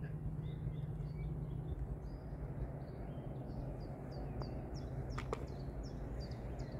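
Small birds chirping in a quick run of short, high notes over a steady low background rumble. A single sharp click a little after five seconds in, the putter striking the golf ball.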